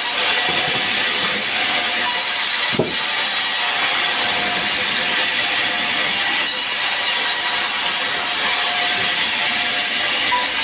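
Sawmill saw cutting sengon wood with a loud, steady high hiss, and one brief knock about three seconds in.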